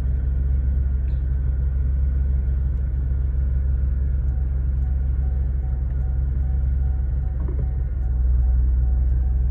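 Car engine idling, a steady low rumble that grows slightly louder about eight seconds in.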